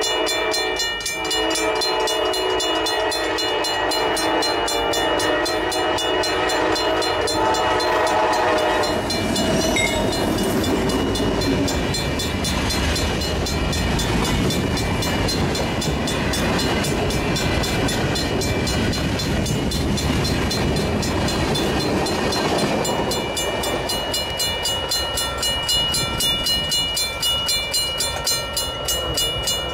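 A freight locomotive's horn sounds a chord for about the first nine seconds, over the steady dinging of the grade-crossing bell. The train then passes close by, a loud noisy rush of wheels on rail. Near the end the crossing bell comes through again, with a rhythmic clatter of wheels over rail joints.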